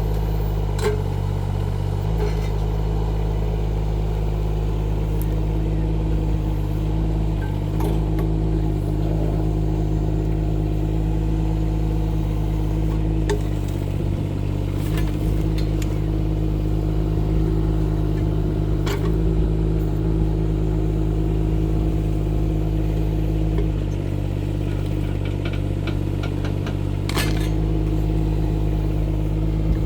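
Rippa R15 mini excavator's engine running steadily while working its hydraulics, the note dipping and shifting every few seconds as it takes load, with occasional sharp knocks.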